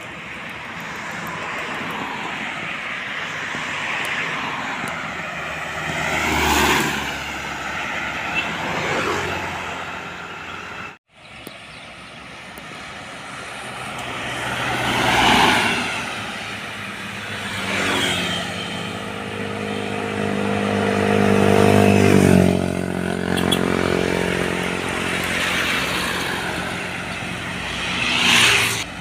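Trucks and other road vehicles passing one after another, each rising and fading with tyre and engine noise and a pitch that drops as it goes by. There is a short break about a third of the way in. Later a heavy truck engine runs loudly with a steady droning note before another vehicle sweeps past near the end.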